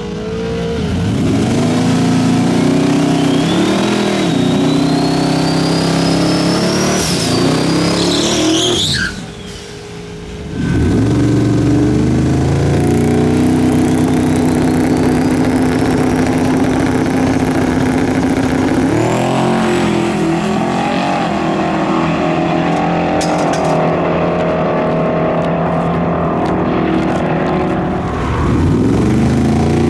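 Twin-turbo 5.3L V8 of a 1967 Chevy C20 pulling hard under boost. The engine note climbs and drops back sharply at each gear change over a rising turbo whistle. The engine falls away briefly about nine seconds in, then pulls again.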